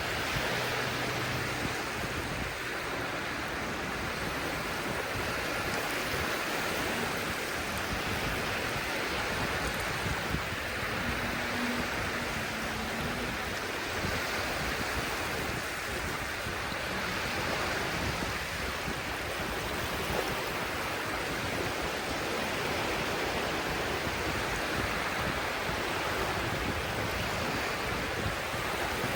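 Sea surf washing on the shore: a steady rush of waves.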